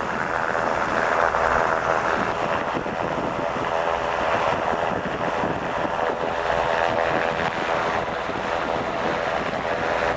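Robinson R22 helicopter running steadily, its engine and rotor a continuous drone, with wind noise on the microphone.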